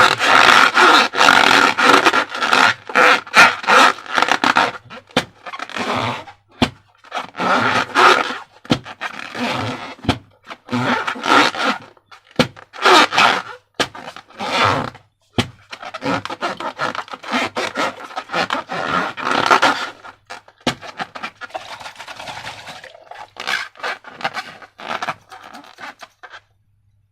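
Rubber balloons being rubbed and squeezed by hand: irregular scraping and rubbing strokes in bursts of a second or two with brief pauses, stopping just before the end.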